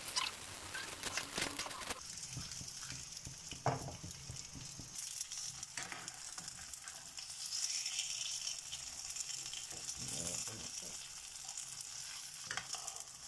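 A frozen paratha sizzling in a little cooking oil in a non-stick frying pan, a steady frying hiss. A few brief clicks in the first few seconds as a spatula touches the pan.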